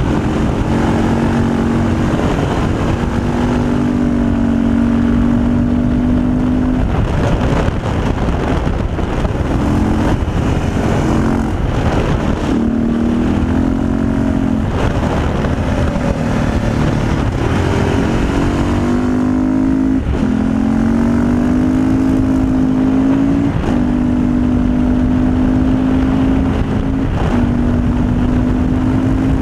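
Motorcycle engine running hard under a steady rush of riding noise, its pitch climbing slowly and dropping back several times as the rider changes gear.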